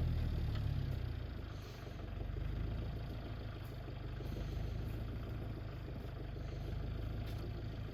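A vehicle engine idling steadily, a little louder in the first second or so.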